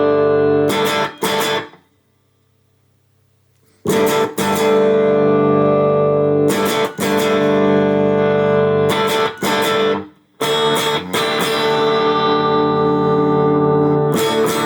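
Electric guitar strumming chords through a NUX Morning Star Bluesbreaker-style overdrive pedal, each chord left to ring. There is a pause of about two seconds near the start. The pedal's tone knob is being swept to show its range.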